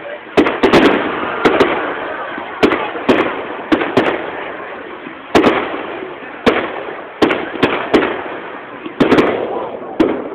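Fireworks display: a rapid, irregular barrage of loud bangs from bursting aerial shells, well over a dozen, with continuous crackling between them.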